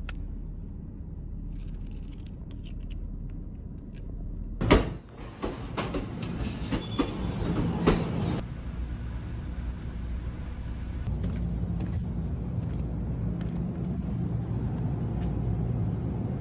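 Steady low rumble of a moving vehicle, with a sharp knock about five seconds in followed by a few seconds of louder clattering noise.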